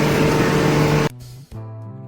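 A loud rushing noise with a steady hum that cuts off suddenly about a second in, followed by quieter background music with sustained notes.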